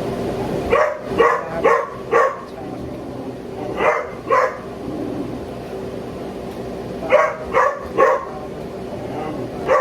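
A dog barking in short runs of sharp barks: four in quick succession, then two, then three, then one more near the end.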